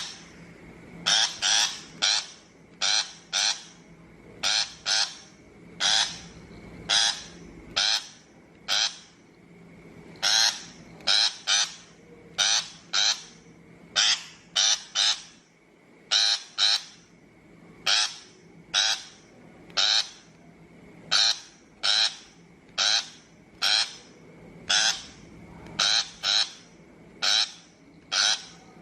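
Shrike giving harsh, rasping calls over and over, often in quick pairs, about one to two calls a second.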